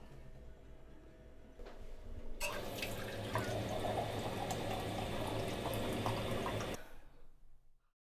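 Water running from a tap for about four seconds, starting a couple of seconds in and cutting off suddenly near the end.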